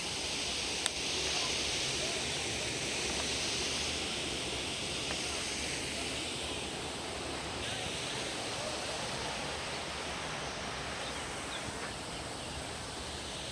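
Steady rushing of a mountain stream fed by snowmelt, with a single sharp click about a second in.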